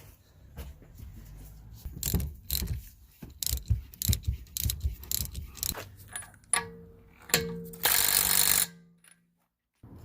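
Ratchet wrench clicking in quick strokes as the nuts on the top mount of a new rear strut are tightened, followed by a short whine and about a second of loud noise near the end that cuts off suddenly.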